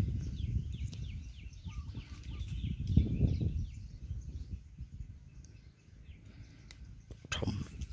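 Small birds chirping repeatedly in short falling notes, over a low rumble on the microphone that swells about three seconds in. A brief rustle comes near the end.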